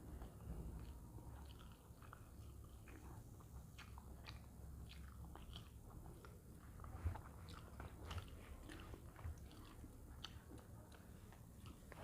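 Faint sounds of a person eating: soft chewing with small scattered clicks and ticks, one slightly louder about seven seconds in.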